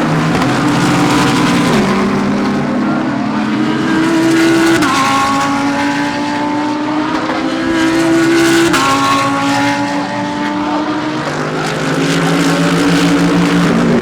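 GT3 race car engines at full throttle, the engine note climbing and then dropping sharply at each upshift, with several gear changes a few seconds apart.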